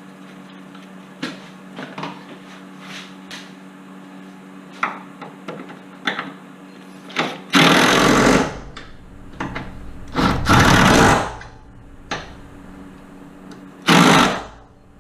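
Impact wrench running suspension bolts in, in three bursts: two about a second long and a shorter one near the end. Before them come a few light metal clanks of parts and tools being handled.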